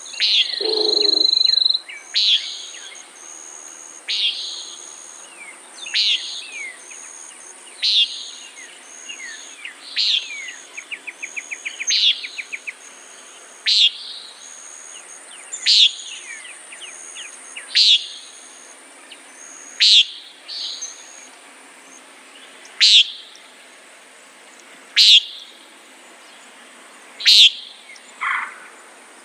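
Common nighthawk calling, its short nasal peent repeated about every two seconds. Insects drone steadily behind it, and a brief rapid ticking trill comes near the middle.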